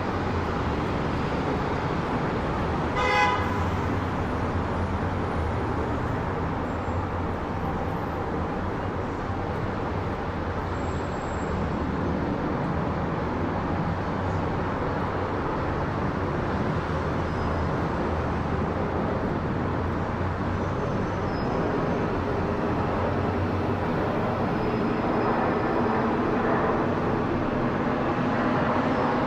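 Steady jet noise of a Boeing 787-10 airliner on approach, growing louder toward the end as it nears overhead. A short horn toot sounds about three seconds in.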